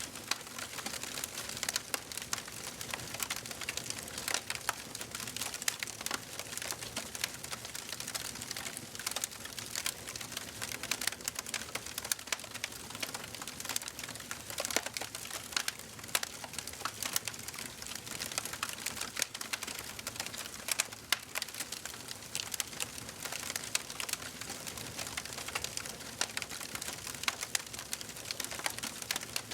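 Wood fire crackling in a fireplace: a dense, irregular run of small sharp pops and snaps over a soft hiss.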